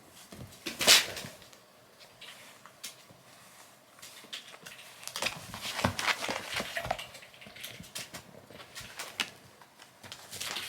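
A kitten romping and pouncing: scattered thumps, taps and scuffling, with one sharp knock about a second in and a busy flurry of taps and scrabbling in the middle.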